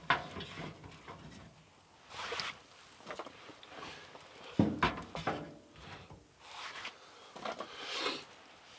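Scattered knocks and rustling of camp gear being handled, with one louder thump about four and a half seconds in.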